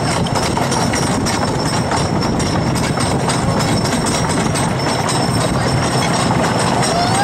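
Wooden roller coaster train running at speed, its wheels clattering and rattling steadily along the track. A brief rising voice is heard near the end.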